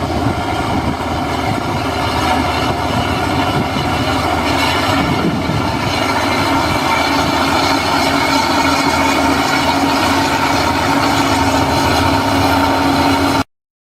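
Heavy earthmoving machinery running steadily, its diesel engine under a constant pitch with a held tone on top; the sound cuts off suddenly near the end.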